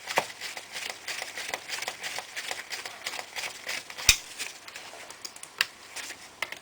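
Small screwdriver clicking and scraping on a laptop screw that spins in place without coming out: a stripped screw. One sharper click comes about four seconds in.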